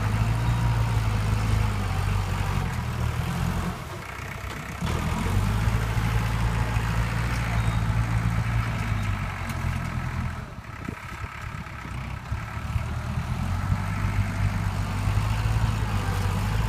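Heavy diesel earthmoving engine of a dump truck or grading tractor running steadily. It eases off briefly about four seconds in and again for a few seconds past the middle, then comes back.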